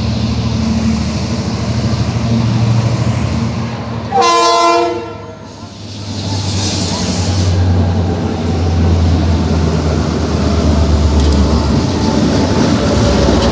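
Train running with a steady low rumble, and about four seconds in a single loud horn blast of about a second that cuts off sharply.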